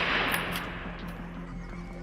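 The tail of a gunshot dying away over the first second, with a couple of short sharp clicks in it, over background music.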